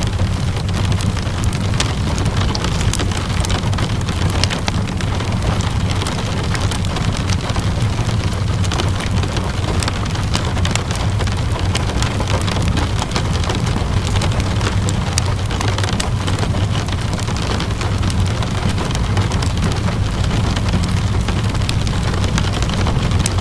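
Steady rainfall mixed with a crackling wood fire: an even hiss of rain over a low rumble, with many small, scattered crackles and pops.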